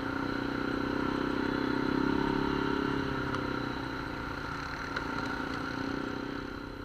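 ATV engine running steadily while riding, building slightly about two seconds in and easing off toward the end.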